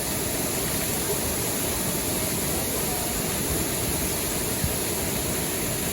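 Steady rushing of river water at a waterfall, an even, unbroken noise.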